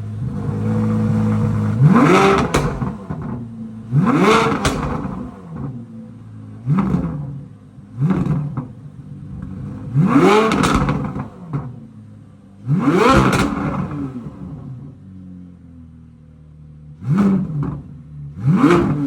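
C8 Corvette Z06's 5.5-litre flat-plane-crank V8 being revved repeatedly: about eight quick throttle blips, each rising sharply in pitch and falling back to a steady idle, with longer pauses at idle in the middle and near the end.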